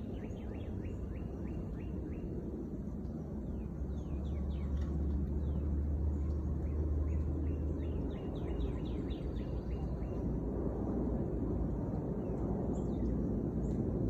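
Small birds chirping in quick runs of short, falling notes, over a steady low rumble that swells for a few seconds in the middle.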